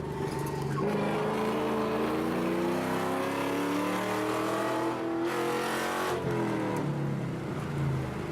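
2010 Ford Mustang GT's 4.6-litre V8, straight-piped with long-tube headers, pulling hard under acceleration: the exhaust note climbs steadily in pitch for about four seconds, then the revs fall away about six seconds in.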